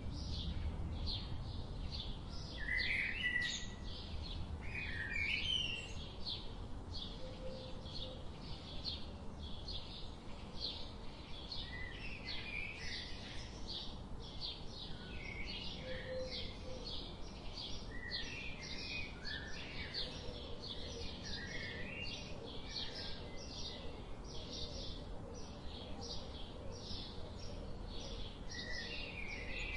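Birds chirping: a fast run of short, high chirps repeating several times a second, with now and then a lower warbling call.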